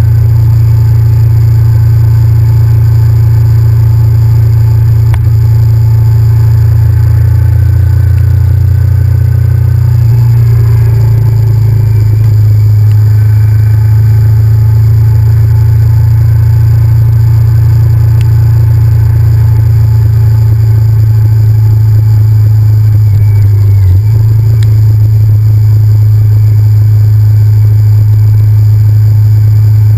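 Honda VTR1000F's 90-degree V-twin engine running steadily under way, a low drone whose note shifts a few times, about ten seconds in and again near twenty-four seconds.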